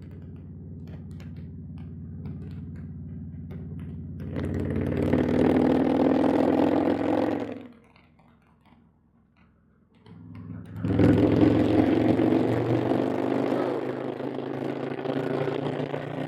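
Harley-Davidson bagger motorcycle's V-twin engine running on the move, getting louder and rising in pitch as it accelerates about four seconds in. It drops away almost to silence for about two seconds, then comes back loud and steady.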